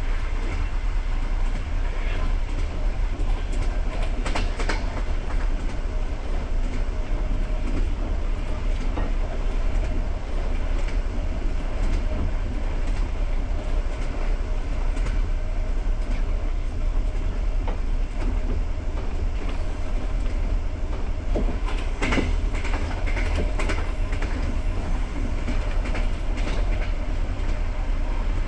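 Passenger train running, heard on board: a steady low rumble of wheels on rail, with a few sharper clacks about four seconds in and again around twenty-two seconds in.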